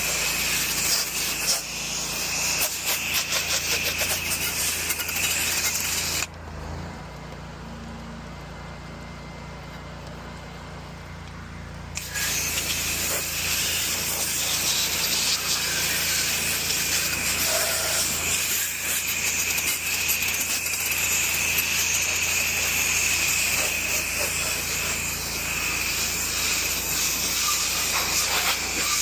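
Pressure washer spray hissing steadily against the house, with the machine's steady low hum underneath. About six seconds in the spray cuts off for roughly six seconds, leaving only the hum, then starts again.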